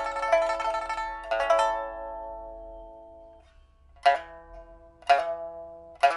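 Pipa, a 1983 Shen Huanchun instrument of old rosewood with white ox-horn fittings, test-played after being refitted with a new soundboard and frets. A quick run of plucked notes ends in a chord that rings and fades away. After a brief pause come sharp single plucked chords, about one a second, each decaying.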